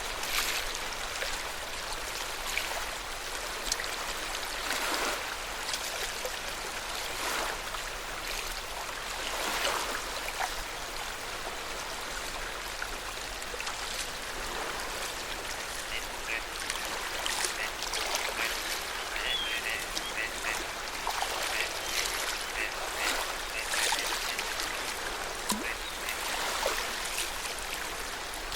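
Small waves lapping at the lake shore in soft, irregular swells. About halfway through, a bird gives a run of short, quick calls.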